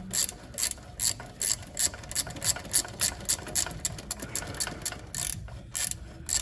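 Ratchet wrench clicking as it spins out a freshly loosened gearbox oil drain bolt, a regular run of sharp clicks about three a second.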